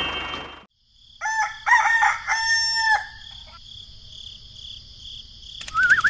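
A rooster crowing: one cock-a-doodle-doo about a second in, in three linked parts lasting nearly two seconds. Near the end a loud wavering whistle starts.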